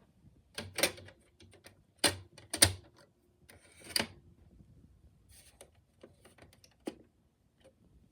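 Deliberately scratched CD skipping during playback: irregular sharp digital clicks and stuttering scraps of audio with brief held tones, the loudest clicks about two and a half seconds in.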